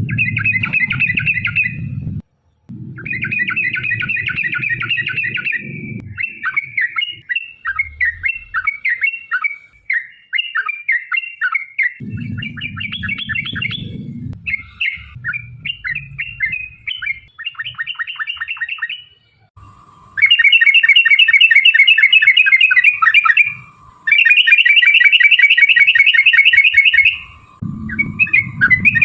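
Yellow-vented bulbuls (trucukan) singing in fast, rolling chatters of rapid notes, broken by short pauses. The longest and loudest runs of quickly repeated notes come in the last third. Low rumbling and a steady mid-pitched tone sit underneath in places.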